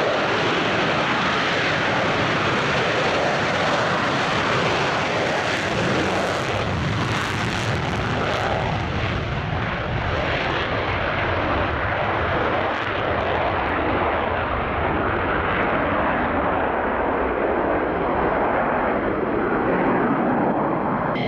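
Military fighter jet engines running loud and steady, with the hiss at the top end fading away partway through.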